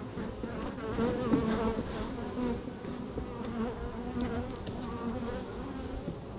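Honey bees buzzing around an opened hive: many overlapping, wavering hums with no break.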